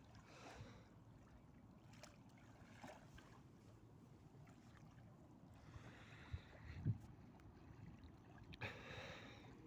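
Faint river water washing and lapping in soft swells every few seconds over a low steady rumble, with two short soft thumps about six and seven seconds in.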